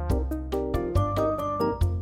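Background music: an upbeat electronic track with a synthesizer melody over a steady beat.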